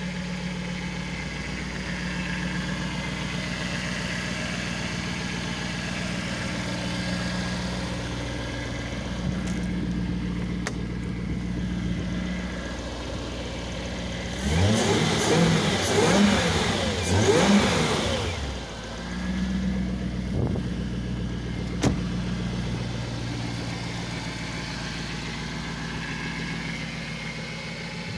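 Jaguar XJR's supercharged 4.0-litre AJ-V8 engine idling steadily. About halfway through, the throttle is blipped three times in quick succession, then once more lightly a couple of seconds later, before it settles back to idle.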